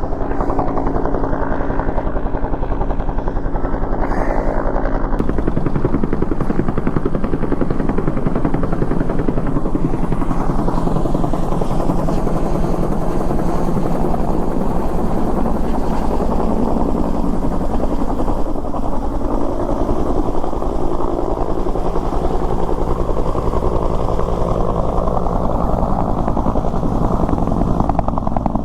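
Air-ambulance helicopter running close by: a loud, steady rotor chop over the drone of its turbine. The low drone shifts in pitch about five seconds in.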